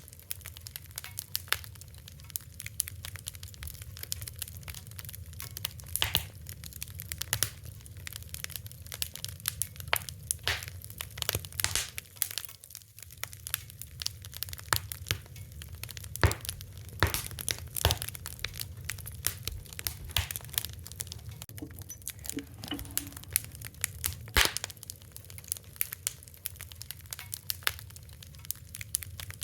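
Wood fire crackling: irregular sharp pops and snaps scattered throughout, over a low steady rumble of the burning.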